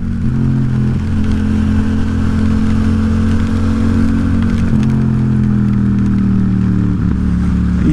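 Yamaha XSR700's parallel-twin engine running steadily under way, its pitch easing slightly lower in the second half, over a steady hiss of road and wind noise.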